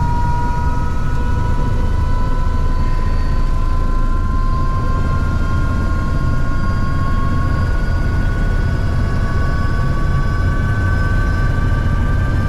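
Helicopter turbine and rotor running: a loud, steady low rumble with a high whine that slowly rises in pitch.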